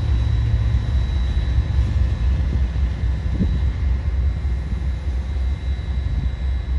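Steady low rumble of a heavy vehicle, with faint steady high-pitched tones above it.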